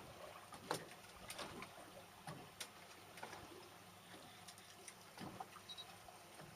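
Faint, irregular small splashes and light knocks of water lapping against a small boat's hull.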